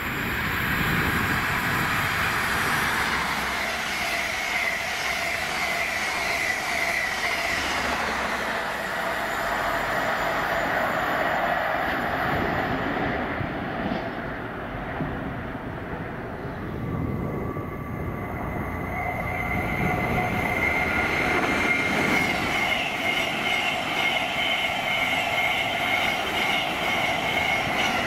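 Electric passenger trains running through a station: a steady rumble of wheels on rails with high steady whining tones, easing a little midway and then building again as a Thameslink Class 700 electric multiple unit passes close.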